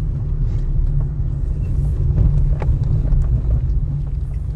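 Car heard from inside the cabin: a steady low rumble, with a few faint clicks and knocks over it.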